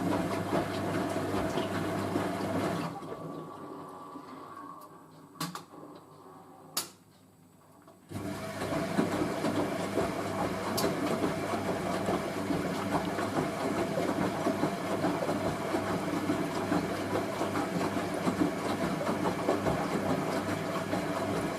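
Hoover A3060 Electronic 1100 washing machine's motor running and turning the drum during the final rinse. About three seconds in it winds down and stops for a few seconds, with two sharp clicks in the pause. It starts abruptly again about eight seconds in and runs steadily.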